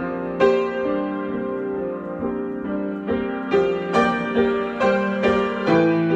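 Solo piano improvisation: chords and single notes struck and left to ring, a few notes a second, growing busier about halfway through.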